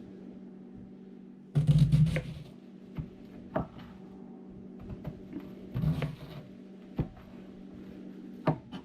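A knife slicing through a head of cabbage on a cutting board: irregular crisp cuts and knocks of the blade on the board, with a louder bump and rustle about a second and a half in and another about six seconds in, over a steady low hum.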